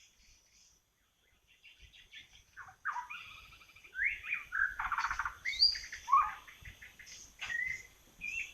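White-rumped shama (murai batu) singing: a run of varied whistled phrases that glide up and down, starting about two seconds in and fullest in the middle.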